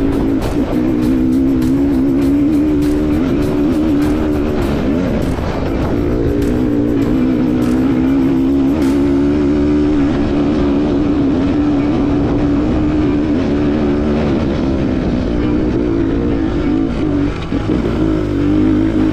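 Enduro motorcycle engine running under load at fairly steady revs while riding, over a heavy low rumble. Scattered sharp ticks sound during the first half.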